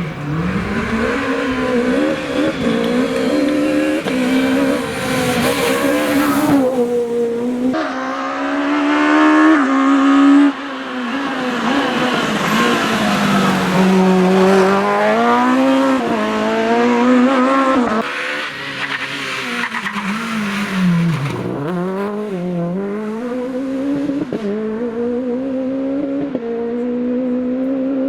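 Super 1600 rally car engine revving hard, its pitch climbing and then dropping sharply at gear changes several times. About two thirds of the way through it falls low and climbs again.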